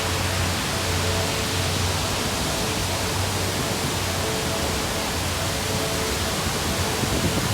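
Steady rushing noise of a waterfall, with faint music underneath.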